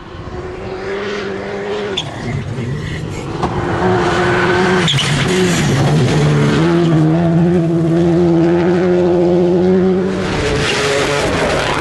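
Rally car's turbocharged engine under hard acceleration, coming closer and growing louder over the first few seconds, with its pitch stepping up and down several times as it changes gear. It stays loud after that, with a slight dip near the end.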